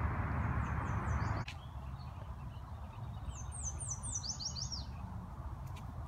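A small songbird sings two quick runs of high, downward-slurred notes, the second and clearer run about three and a half seconds in. The first second and a half is under a steady rushing noise that cuts off suddenly.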